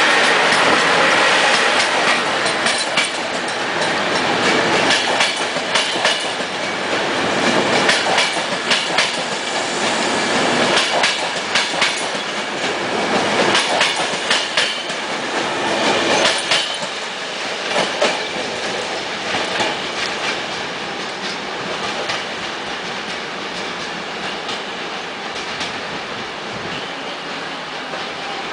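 A passing train, its wheels clicking over the rail joints in repeated clusters. The sound eases off gradually over the last ten seconds or so.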